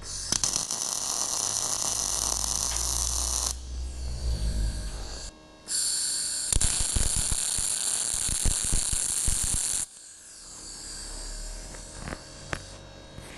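Electric arc welding on the steel table: two welding runs of steady crackling and sizzling, the first about three seconds long, the second about four, with a pause between them and a low hum after the second stops.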